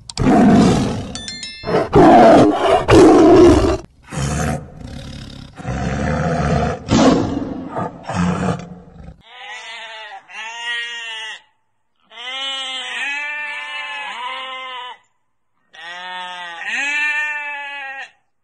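An animal making loud, rough roaring calls for about nine seconds. Then, after a break, an animal gives a run of short pitched calls, each rising and falling, in three groups with short silences between them.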